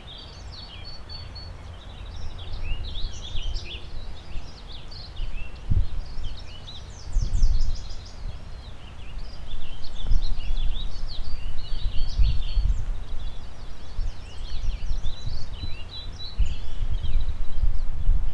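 Several birds chirping and trilling in a busy morning chorus, with gusts of wind buffeting the microphone as a low rumble that swells several times.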